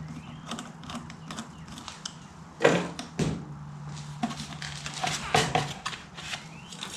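Hands handling an engine air filter element and its housing: scattered light clicks and rustles, with two louder knocks a little under three seconds in and about half a second apart. A faint steady hum runs underneath for the first half.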